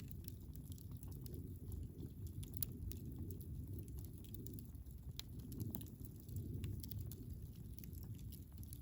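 Wood campfire burning: scattered sharp crackles and pops over a steady low rumble.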